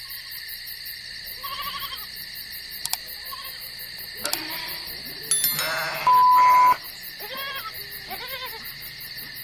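Several short bleating animal calls over a steady high-pitched hiss. A flat electronic beep about six seconds in lasts under a second and is the loudest sound.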